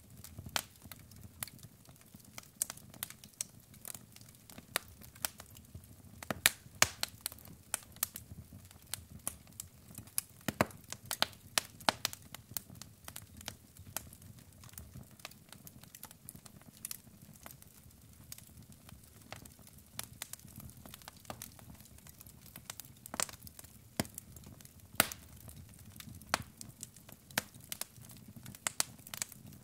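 Wood fire in a fireplace crackling, with irregular sharp pops and snaps from the burning logs over a low, steady rumble of flame.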